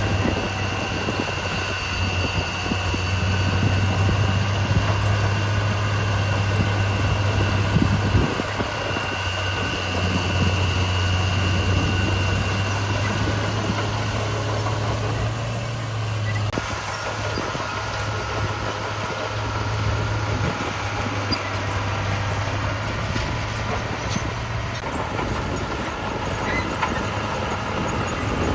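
Heavy diesel engines of construction machinery running steadily with a low drone. The sound shifts abruptly about halfway through.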